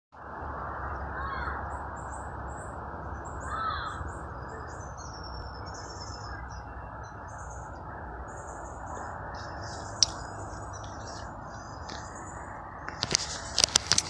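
Birds calling outdoors: scattered high chirps throughout, and two louder calls about one and three and a half seconds in, over a steady low background hiss. A few sharp clicks near the end.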